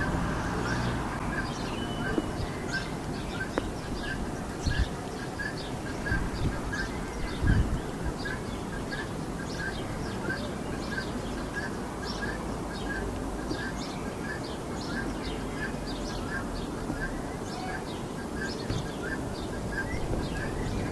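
Several birds chirping and calling over a steady low rumble of road traffic. One short note repeats about twice a second throughout, and a few dull low thumps stand out.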